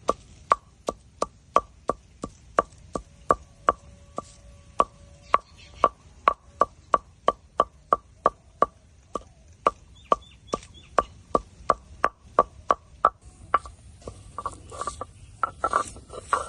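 Knife chopping on a cutting board in a steady rhythm of about three strokes a second, stopping about three seconds before the end, when irregular, louder, noisier sounds take over.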